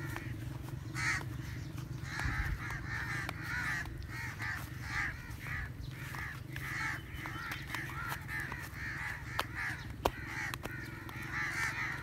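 Birds calling in a quick, continuous run of short repeated calls, over a steady low hum, with a couple of sharp clicks about nine to ten seconds in.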